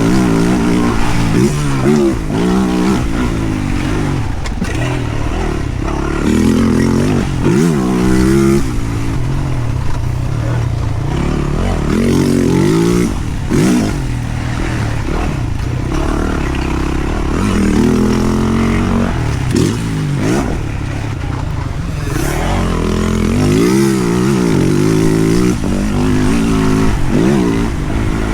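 Yamaha YZ450F motocross bike's single-cylinder four-stroke engine revving up and backing off over and over, its pitch rising and falling every few seconds as the throttle is opened and closed.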